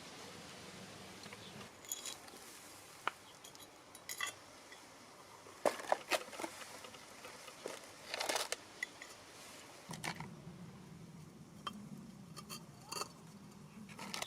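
Small hard objects clinking and clicking as they are handled: irregular single clicks and short rattling clusters, the busiest stretch about halfway through.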